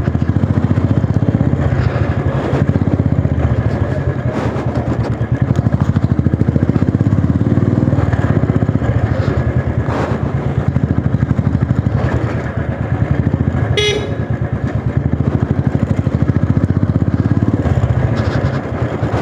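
Motorcycle engine running steadily under way, its firing pulses plain throughout. A brief horn toot sounds about fourteen seconds in.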